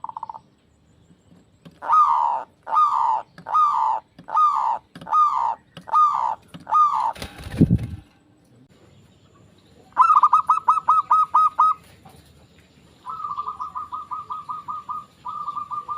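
Zebra dove (perkutut) cooing: a run of seven evenly spaced falling notes, then rapid rolled trills of short notes in the second half. A single low thump falls about halfway through.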